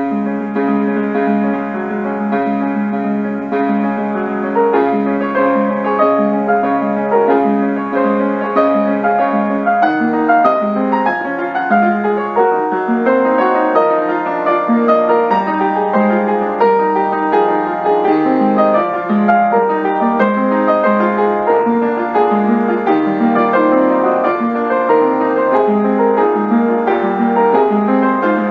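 Solo piano playing a slow original prelude in D flat major, with sustained chords and a steady flow of notes that grows busier about ten seconds in.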